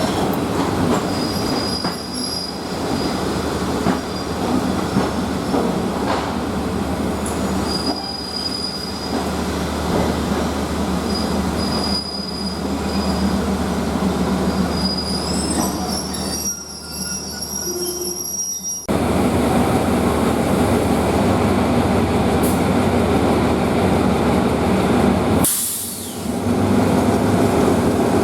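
Passenger train rolling slowly over track, its steel wheels squealing on and off over a steady rumble. About two-thirds in, the squealing stops and the rumble turns louder and even.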